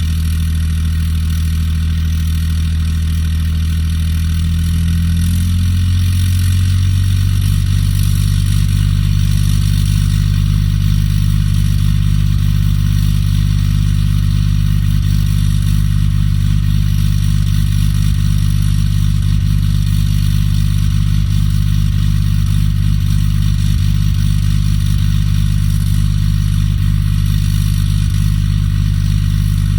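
Cummins diesel engine idling while warming up after a cold start. About five seconds in, its idle speed rises and then holds steady at the higher speed.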